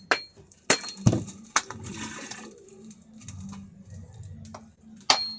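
A few sharp knocks, like chopping or hammering, in the first two seconds and again near the end, with a brief hiss between them.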